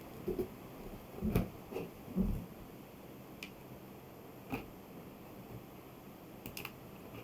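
Scattered soft low thumps and faint clicks, typical of objects being handled at close range: a few thumps in the first two and a half seconds, single clicks around three and a half and four and a half seconds in, and a quick double click near the end.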